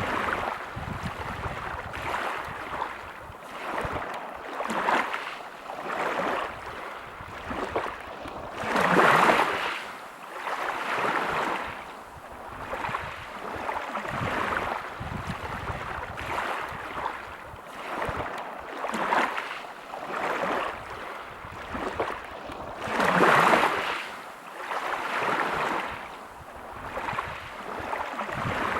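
Sea waves breaking and washing over a pebble beach. The surf swells and ebbs every second or two, with two louder breaks about nine and twenty-three seconds in.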